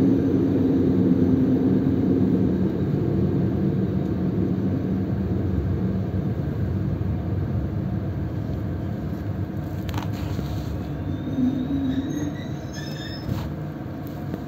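Passenger train heard from inside the carriage as it slows to a stop at a station: the running noise and low motor hum fade steadily, with a few brake clicks and a faint high squeal near the end.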